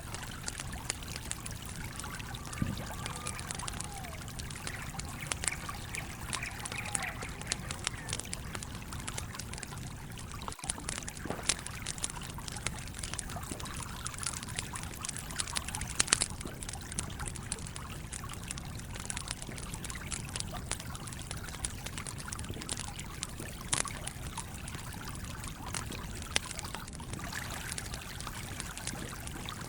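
A stream running steadily, with a wood campfire crackling over it in scattered sharp pops, the loudest pop about halfway through.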